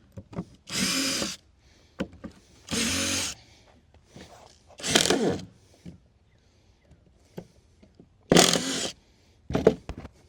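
Power drill driving screws into wooden deck boards in short bursts of under a second: four main runs and a brief one near the end, with light clicks and knocks of handling between them.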